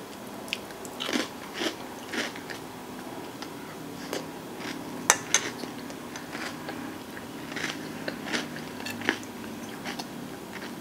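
Close-up chewing of a mouthful of ice cream with crunchy cookie and brownie-crisp toppings: irregular soft crunches and wet mouth clicks, with two sharper crunches about five seconds in.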